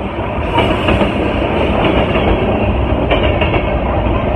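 Freight train of covered hopper cars rolling past, a steady rumble of steel wheels on rail with occasional clacks at the rail joints.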